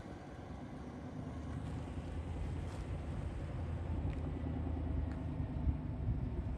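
Exhaust of a 2020 GMC Sierra 1500 with the muffler replaced by a MagnaFlow muffler-delete pipe, a steady low drone that slowly grows louder.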